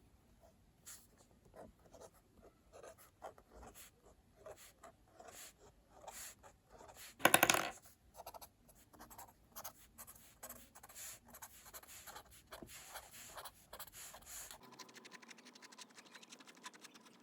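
Pen scratching on paper in short strokes, writing or drawing, with a louder half-second burst of rapid scratching about seven seconds in.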